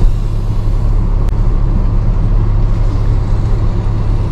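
Tow truck engine and road noise heard from inside the cab while driving, a steady low drone.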